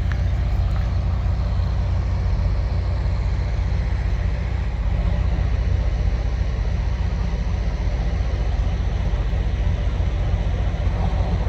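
Steady low rumble with a fainter hiss over it, no distinct events.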